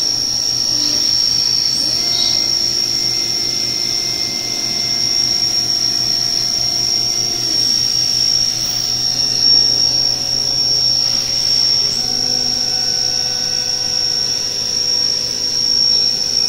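Haas VF-3 CNC vertical machining center running its program: the spindle turning an end mill gives a steady high whine. Lower tones from the axis drives change as the table moves, about two seconds in and again about twelve seconds in.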